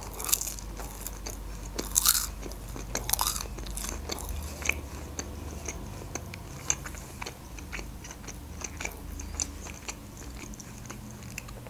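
A person chewing pancakes close to the microphone: a scatter of short mouth clicks and smacks, busier in the first few seconds.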